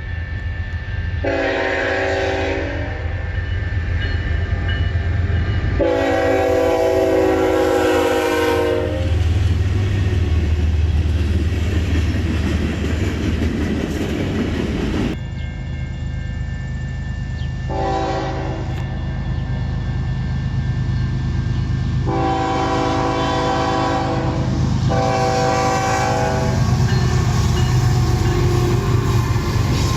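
Diesel locomotive air horn blowing five blasts, each a chord of several tones: a short one, a long one, then after a pause a short one and two long ones. A steady low rumble of the train runs under them.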